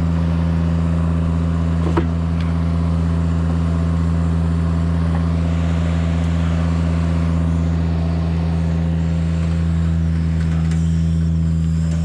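Engine of a tracked aerial lift running steadily at raised speed, having just been revved up, with a single brief click about two seconds in.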